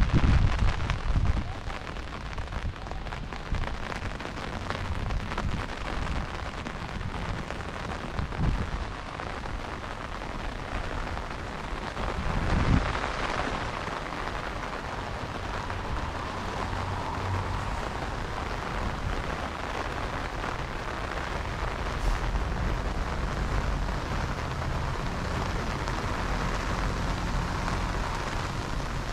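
Heavy rain falling in a steady hiss. There is a loud low rumble in the first second or so, and a couple of brief low thumps later.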